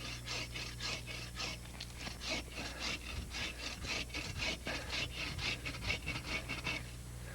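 Hand pruning saw cutting through a young black walnut stem near the ground, quick even rasping strokes, several a second, that stop shortly before the end.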